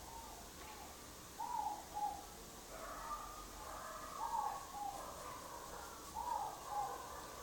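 Faint bird cooing: a short two-note coo repeated about three times, every two to three seconds, with a second, fainter bird call running under it from about three seconds in.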